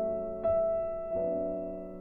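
Slow, soft piano music: single notes struck and left to ring and fade, a new note entering about every half second to a second.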